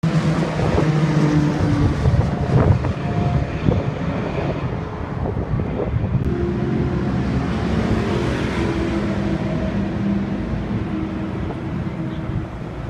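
Audi R8's 4.2-litre V8 running through an aftermarket Scart exhaust at a fairly steady engine speed, with a few sharp cracks about two to four seconds in.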